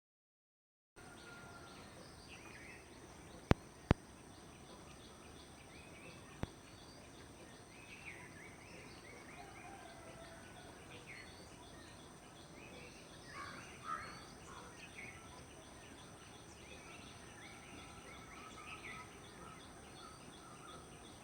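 Quiet outdoor ambience with birds chirping here and there over a steady high-pitched drone, broken by three sharp clicks, two in quick succession a few seconds in and a third shortly after.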